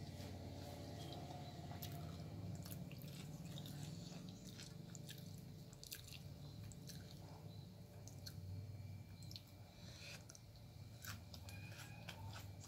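Close-up mouth sounds of someone chewing and crunching a crisp uthappam with coconut chutney. There are many small, irregular crunchy clicks over a steady low hum.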